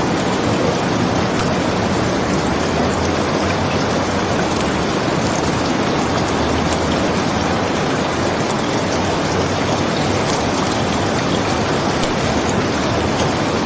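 Steady rain falling: an even, dense hiss that doesn't change, with faint small ticks of drops in it.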